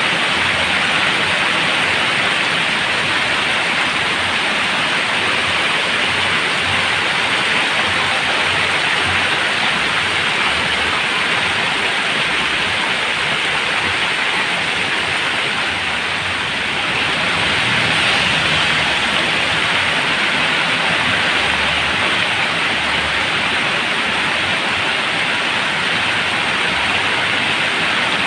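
Heavy rain pouring steadily as a dense, even hiss; it eases slightly just past the middle, then swells again.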